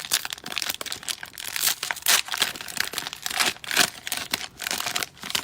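Cellophane wrapper of a Panini Donruss Optic cello pack of basketball cards being crinkled and torn open, a dense run of crackles that dies away at the end.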